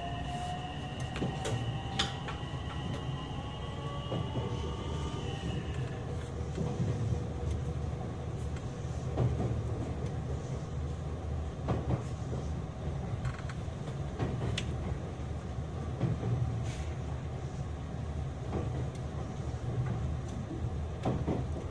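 Onboard running sound of a JR West 227 series 'Red Wing' electric train with a Toshiba IGBT VVVF inverter. Its traction motors whine, rising in pitch for about the first five seconds, then fade. A steady low rumble of wheels on rail follows, with scattered clicks from the track.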